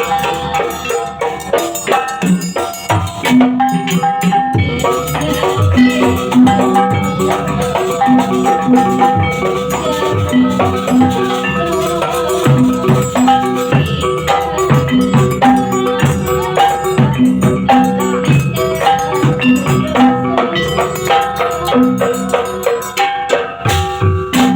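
Gamelan-style barong accompaniment: metal keyed percussion playing repeated ringing notes over steady drum strokes, with a rattling shaken percussion layer, in a continuous driving rhythm.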